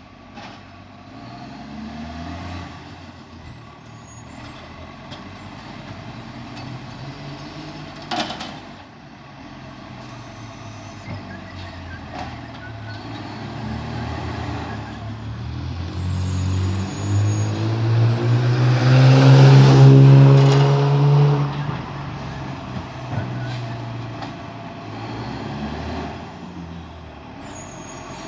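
Garbage truck's diesel engine running, building up to a loud peak about two-thirds of the way through and then easing back. There is a short sharp hiss about eight seconds in, likely an air brake.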